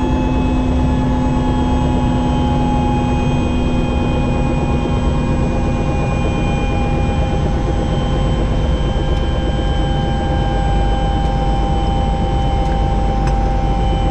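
Helicopter running, a steady heavy rumble of engine and rotor with a constant high thin whine over it.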